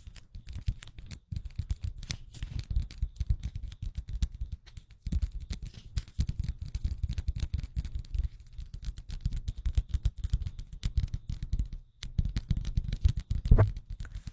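A camera-cleaning tool rubbed and brushed rapidly right on a Rode microphone: dense scratchy strokes with a heavy low rumble, pausing briefly twice.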